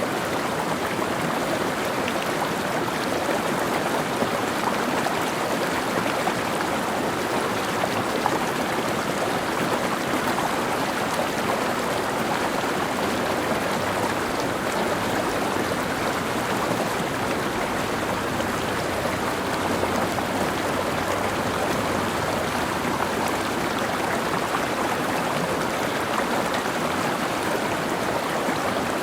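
Mountain stream flowing over rocks: a steady, even rush of running water that does not change.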